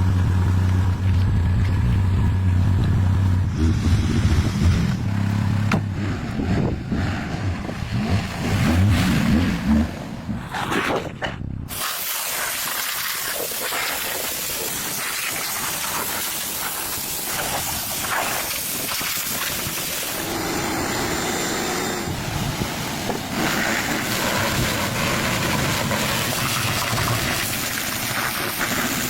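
A motor running with a steady low hum for the first several seconds, then after an abrupt cut about twelve seconds in, a steady hissing noise.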